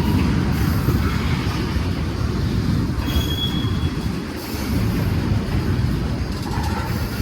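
Freight train cars rolling past close by, a steady rumble of steel wheels on the rails, with a brief high-pitched wheel squeal about three seconds in.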